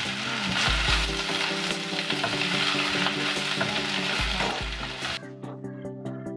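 Drumstick leaves and onion sizzling in hot oil in a stainless-steel kadai, stirred and tossed with a wooden spatula that scrapes against the pan. The sizzling and stirring stop about five seconds in, leaving soft background music underneath.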